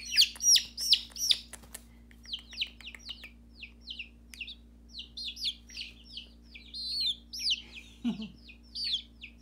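Baby chicks peeping: a steady run of short, high chirps, each sliding down in pitch, about two a second.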